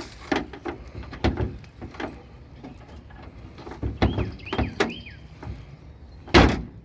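A stuck car door being worked on: scattered clicks and knocks from the handle and latch, then a heavy thunk of the door against its frame near the end. The door's bent latch keeps catching and won't let it open. A bird chirps a few times about four seconds in.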